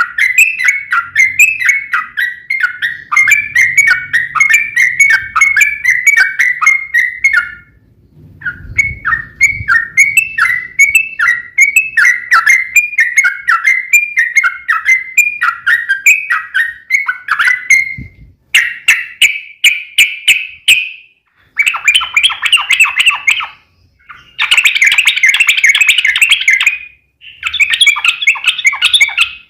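Yellow-vented bulbul (trucuk) singing a long, fast run of repeated chattering notes. After a brief pause about 8 s in, the song carries on. From about 18 s it breaks into shorter, denser phrases, the loudest near the end.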